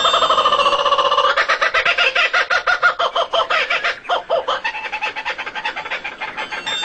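Bird calls: a fast run of repeated clucking-like pulses that grows weaker after about four seconds.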